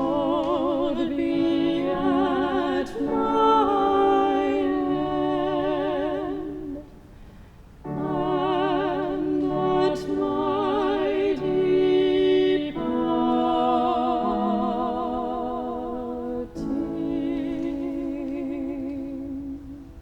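Classical-style singing with strong vibrato over sustained accompanying notes, in long phrases with a short break about a third of the way in and another brief one near the end.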